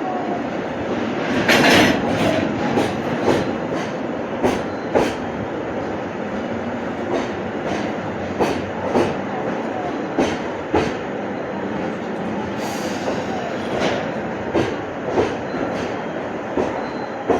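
Electric train's wheels rolling over rail joints and points, a steady rumble broken by many sharp, irregular clacks, with a brief high wheel squeal about a second and a half in and a fainter one near the end.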